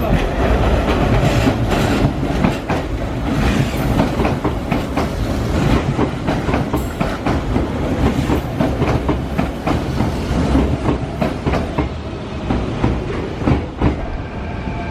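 Hanshin 5000-series 'Jet Car' electric commuter train running close by, its wheels clattering over rail joints in a steady clickety-clack. A few steady high tones come in near the end.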